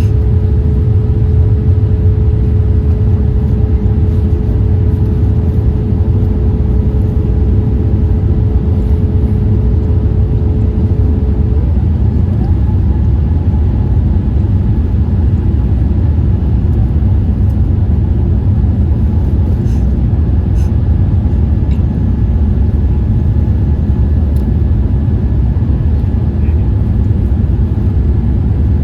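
Steady cabin rumble of a Boeing 787-8 airliner in flight, heard from inside the passenger cabin, with faint engine tones over it. About twelve seconds in, one tone stops and a higher one takes its place.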